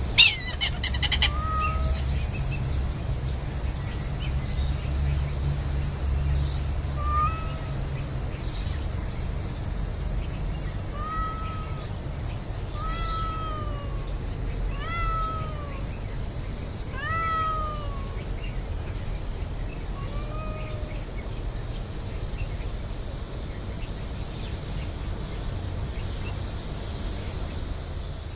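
A cat meowing repeatedly: about eight short meows, each rising and falling in pitch, over the first twenty seconds. A sharp click sounds right at the start, and a low rumble runs underneath, strongest in the first few seconds.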